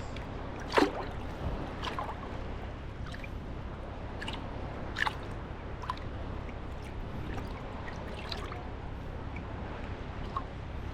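Sea water lapping at the shore: a steady wash with short, sharp splashes and drips every second or so, the loudest about a second in.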